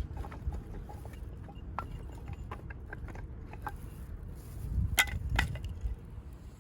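Scattered small cracks and knocks of burning or handled firewood over a low rumble, with two louder knocks about five seconds in.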